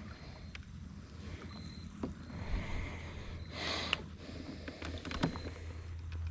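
Fishing kayak on the water: a steady low hum of a small electric motor, a few light clicks and knocks, and a short rush of noise about three and a half seconds in.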